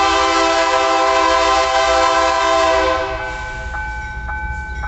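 Freight train's locomotive horn blowing one long, loud chord for about three seconds, then cutting off and dying away in an echo.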